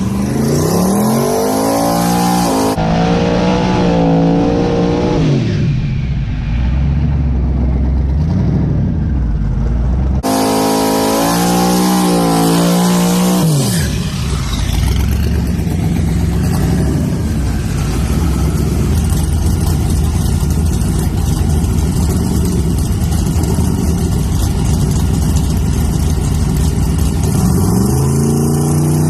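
Twin-turbocharged 5.3-litre LS V8 accelerating hard down the drag strip, its pitch rising in several sweeps. The sound changes abruptly a few times, as if cut between takes.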